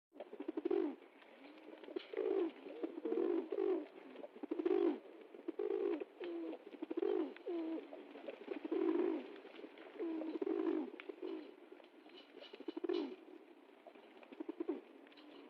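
Birds cooing: a string of short, low calls about once a second, with a few faint clicks near the end.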